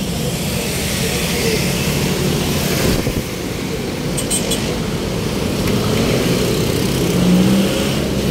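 Steady road traffic: motor vehicles running and passing with a continuous low engine hum.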